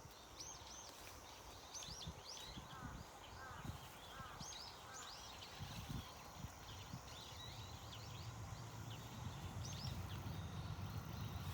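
Small birds chirping: many short, high calls come in quick clusters, with a few lower falling notes about three to four seconds in. Under them is a low, steady background rumble that grows a little louder in the second half.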